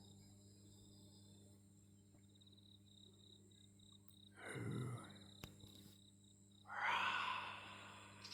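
Crickets chirping steadily over a low constant hum. Two louder sounds cut through them, one about four and a half seconds in and a longer, louder one at about seven seconds; their source is unclear.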